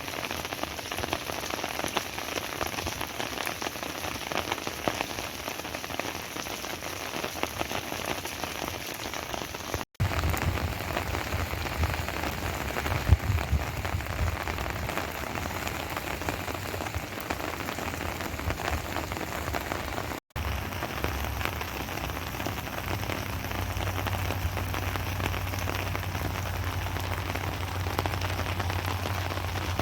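Heavy rain falling and pattering steadily on surfaces, cut off for an instant twice. From about a third of the way in a low rumble runs underneath, with one sharper, louder knock shortly after.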